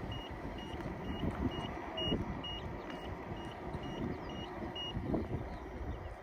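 InMotion E20 electric unicycle sounding a run of short, high beeps, about two a second, that stop about five seconds in. Under them is the steady low rumble of wind and the tyre rolling on cracked pavement.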